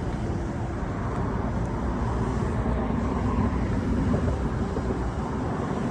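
Steady low rumble of a distant engine, with a faint hum in it.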